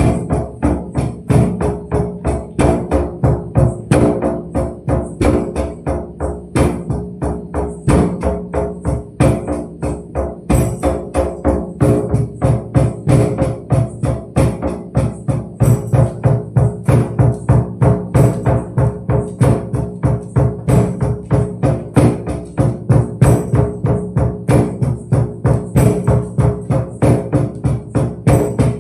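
Frame drum and tambourine played in a steady, even beat of about three strokes a second, deep drum thuds with jingles shimmering on each stroke, over sustained ringing tones.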